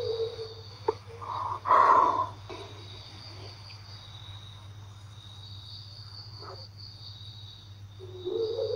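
Crickets trilling steadily over a low hum. A short, louder sound comes about two seconds in, and a wavering mid-pitched tone near the end.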